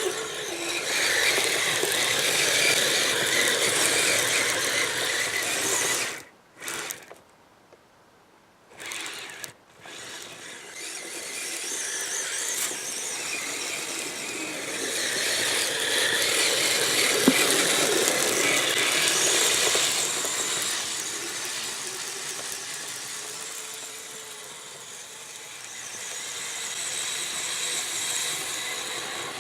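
Electric RC tracked snow vehicle's drive motor and gears whining with a squeal as its tracks run through snow. The drive goes nearly silent for a few seconds about six seconds in, then starts again and rises and falls with the throttle.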